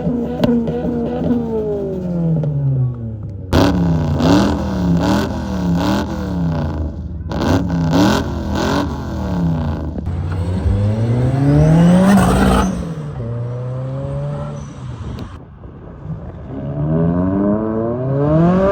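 Car engines revving in a string of short clips: a run of quick rev blips rising and falling about once a second, a single long rev that climbs to a peak and drops, a short steady hold, then another rev rising near the end.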